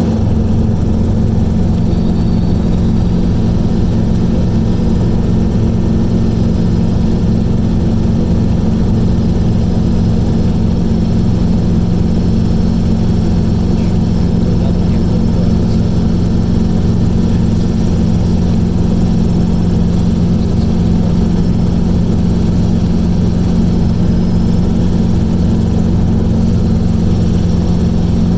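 Light aircraft's engine running in flight, a loud, unbroken drone with a steady low hum.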